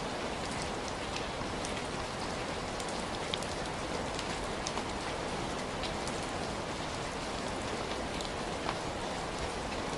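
Heavy rain falling steadily, an even wash of rainfall with distinct drops ticking on a surface throughout.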